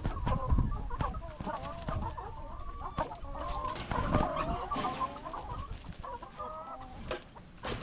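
A flock of laying hens clucking, with many short overlapping calls and a few sharp pecking clicks.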